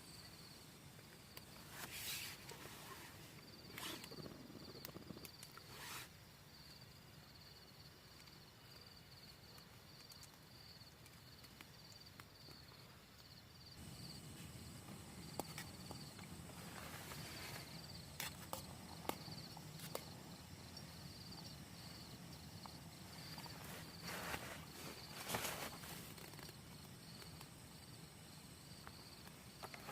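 An insect chirping in a steady, high, evenly pulsed trill, with scattered clicks and knocks of camp cookware being handled; a low steady rush comes in about halfway through.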